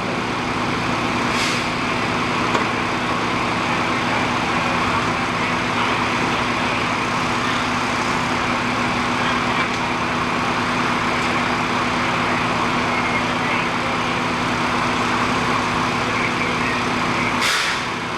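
Heavy vehicle's engine idling steadily, a constant hum. Two brief sharp noises cut through it, one about a second and a half in and one near the end.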